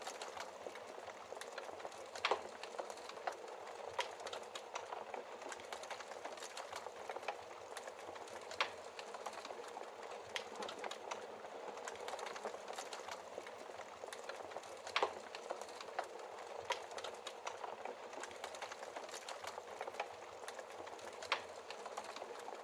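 Wood fire crackling in a fireplace: a steady hiss under a constant patter of small crackles, with four louder pops spread through it.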